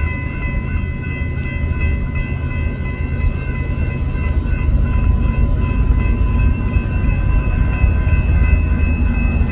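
Train rumbling by, growing louder toward the end, with several steady high ringing tones held over the rumble.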